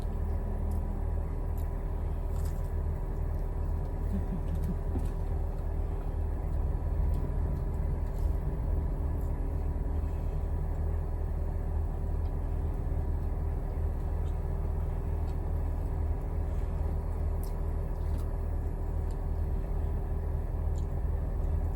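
Vehicle engine idling: a steady low rumble with a constant hum, and a few faint clicks over it.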